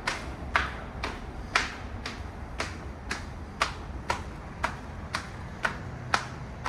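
Footsteps walking at an even pace, about two steps a second, echoing in a pedestrian tunnel.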